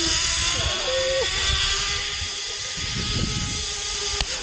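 Zipline trolley running along a steel cable: a steady whirring whine over a loud hiss, with wind buffeting the microphone. A single sharp click comes near the end.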